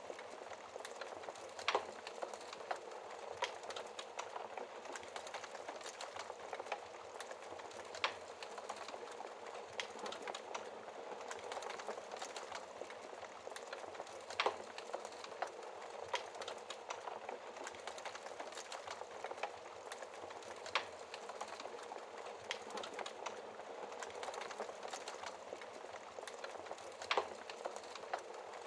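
Wood fire in a fireplace crackling, with a steady hiss of flame and frequent small pops, and a few louder snaps every several seconds.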